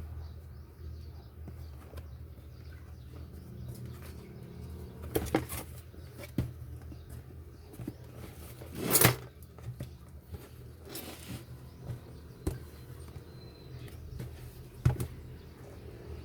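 Handling noises of unboxing a PC power supply: scattered clicks and knocks of packaging being handled, with a louder rustle about nine seconds in. A steady low hum runs underneath.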